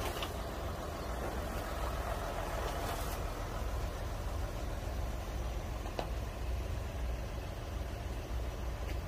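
Car engine running slowly with a steady low rumble, with a faint click about six seconds in.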